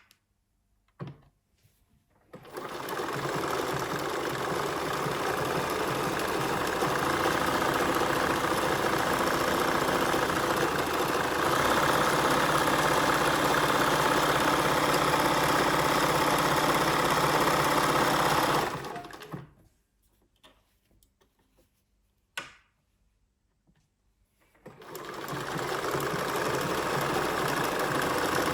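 Bernina 1230 sewing machine running: it starts about two seconds in and runs faster and louder from about the middle. It stops with a few clicks in the pause, then starts up again near the end.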